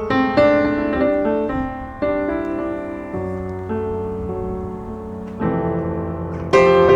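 Piano music: chords and melody notes struck and left to ring, with a louder chord near the end.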